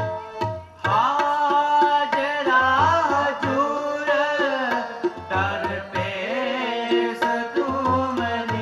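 Sikh kirtan: tabla keeping a steady beat under a sung devotional melody with gliding notes over a held drone.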